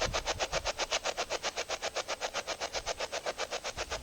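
Spirit box radio sweeping rapidly through stations, giving a steady choppy stream of static bursts at about ten a second.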